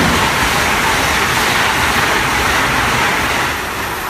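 Passenger train hauled by an AEM-7 electric locomotive passing at speed: a loud, steady rush of wheels on rail and displaced air, starting to fade near the end as the last coach goes by.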